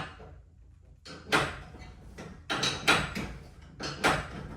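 Torsion spring being wound with steel winding bars, a quarter turn at a time: a short, sharp clack about every second and a half as the bars are worked in the winding cone and the spring's tension is built up.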